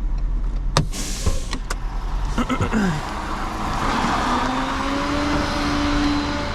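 Vehicle engine running, heard from inside the cab, with a few sharp clicks in the first two seconds. From about four seconds in the engine settles into a steadier, higher note as the vehicle drives.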